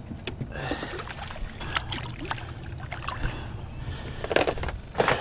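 Small striped bass splashing at the water's surface as it is grabbed and lifted out by hand: a series of short splashes and slaps, with two louder ones near the end.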